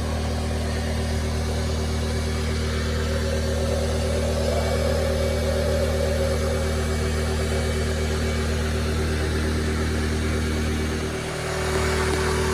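A motor or engine running steadily with a low hum, dipping briefly about eleven seconds in before picking up again.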